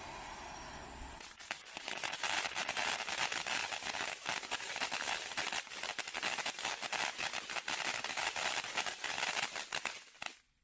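Taco Fiesta firework fountain burning: a steady hiss gives way, about a second in, to a dense, irregular run of crackles and pops that stops just before the end.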